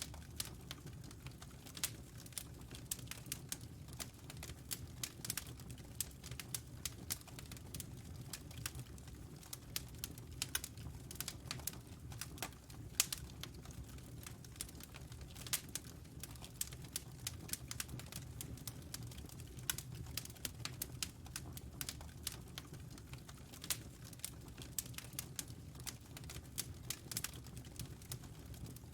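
Wood fire burning in a fireplace: irregular sharp crackles and pops, some of them louder, over a steady low rumble of the flames.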